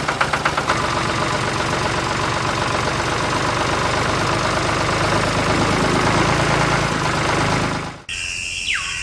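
A machine running with an engine-like sound, pulsing about four times a second at first, then settling into a continuous rattling hum. It cuts off abruptly near the end, and a steady high whistle-like tone with a falling glide follows.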